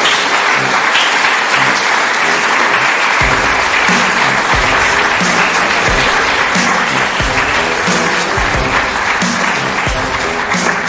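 Audience applauding, with instrumental music playing along; a deep, regular bass beat comes into the music about three seconds in.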